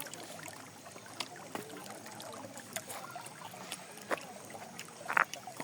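River water running steadily, with scattered short knocks and splashes as someone crosses the river on foot, a louder one about five seconds in.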